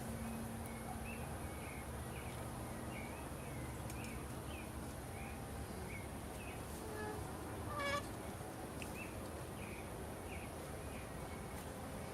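Rural ambience: a bird giving short chirps over and over, about two a second, over a steady high insect buzz, with one louder short pitched call about eight seconds in.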